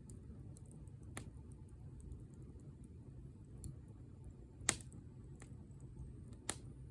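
Wood fire burning: a steady low rumble with faint scattered crackles and three sharper pops, the loudest about two-thirds of the way through.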